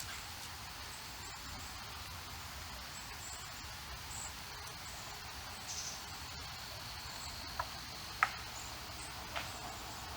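Steady high-pitched insect drone of outdoor ambience, with a few faint high chirps. Three short, sharp chips or clicks come in the last few seconds, the middle one the loudest.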